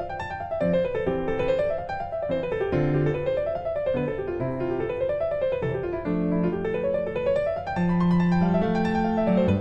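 Background piano music: quick runs of notes that rise and fall in waves over held low notes.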